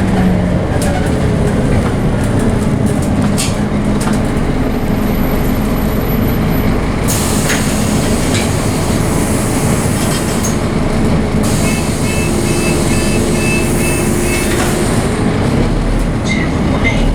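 Scania OmniCity double-decker bus under way, heard from inside the bus: its Scania DC9 engine running steadily under load, with road noise and body rattles.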